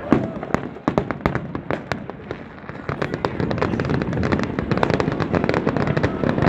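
Fireworks going off: a rapid series of sharp bangs and pops that thickens about three seconds in into dense, continuous crackling.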